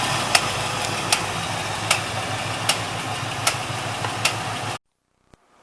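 Pontiac 455 V8 idling with a sharp knock or tick repeating about every 0.8 seconds. This is the abnormal engine noise being diagnosed, which the owner suspects comes from the carburetor. The sound cuts off abruptly near the end.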